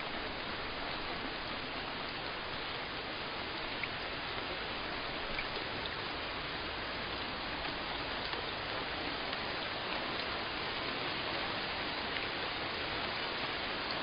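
Steady rainfall, an even hiss of rain with a few faint drop ticks.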